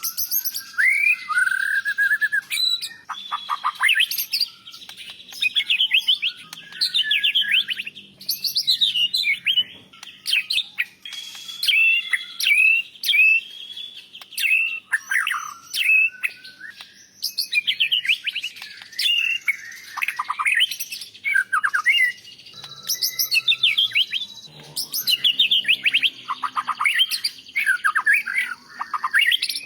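White-rumped shama singing a long, rich song: fast, varied phrases of whistles, rapid trills and chattering notes with short pauses between them, packed with mimicked phrases of other birds.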